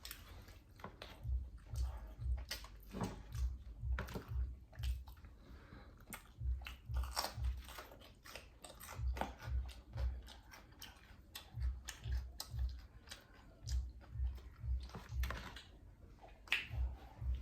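Close-miked chewing and biting of oven-baked spare ribs, with wet mouth clicks and crunches and a steady chewing rhythm of about two to three jaw strokes a second.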